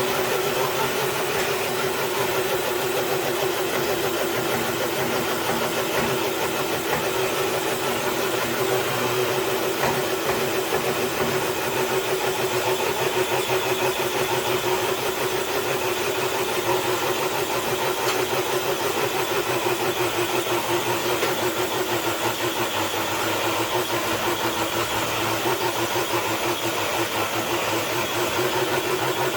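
Radio-controlled scale truck's motor and drivetrain whining steadily under load as it drags a weighted dead sled across concrete, the pitch dropping slightly about two-thirds of the way through.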